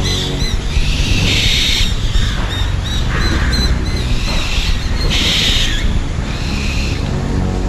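Birds calling: about four short harsh calls roughly two seconds apart, with quick repeated chirps near the start, over a low steady rumble in an ambient music track.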